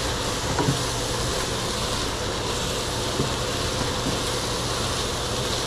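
Food frying in a hot pan, a steady sizzle while it browns, over a low steady hum.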